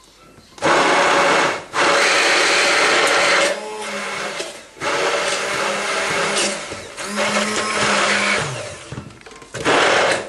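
Electric blender running in several bursts, switched on and off or pressed harder and softer, while blending homemade mayonnaise of egg and oil.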